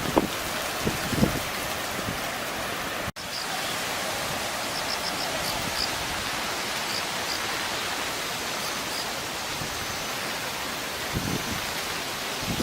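Steady rushing of the Yanase River in flood, swollen by a typhoon. It cuts out for an instant about three seconds in, and a few gusts of wind buffet the microphone near the start and end.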